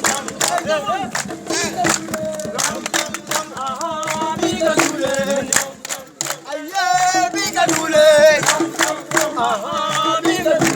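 A group of voices singing a call-and-response song over a fast, steady percussive beat, with a brief lull about six seconds in.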